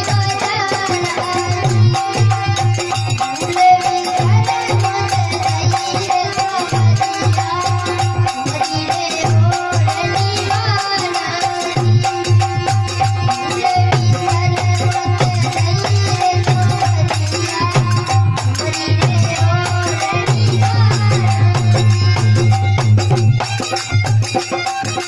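Desi bhajan folk music: a held, melodic instrument line over a steady low drum beat and rattling percussion.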